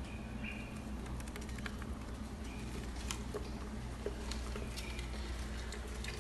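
Caged small parrots moving about: scattered light clicks and scratches of feet and beaks on the cage, with a few brief chirps, over a steady low hum.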